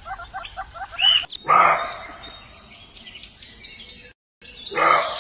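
Bird calls: a fast run of short repeated chirps, about eight a second, with a higher arched note, then two louder, harsher calls about three seconds apart.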